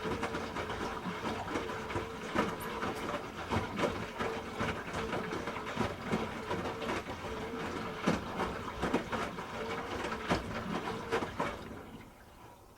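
Hoover H-Wash 300 Plus washing machine drum turning with water and laundry sloshing, with irregular clicks and an on-off hum from the machine; it winds down and stops near the end.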